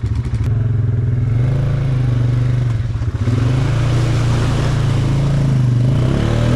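ATV (four-wheeler) engine running under throttle with a slightly wavering pitch as it is driven into deep water, at risk of flooding. A rushing noise joins it and gets louder from about three seconds in.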